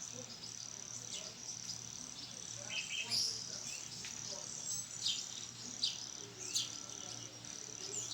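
Insects trilling at a steady high pitch with short breaks, and birds giving several short, quick chirps scattered through.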